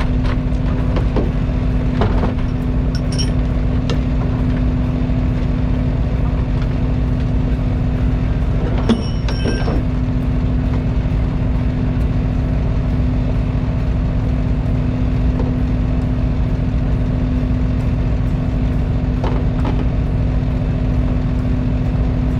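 Fishing boat's engine running steadily at a constant speed: an even low hum with a few faint clicks.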